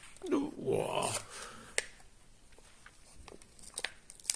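A few light, scattered clicks and taps of plastic blister packaging and a die-cast toy car being handled as the car is taken out of its pack.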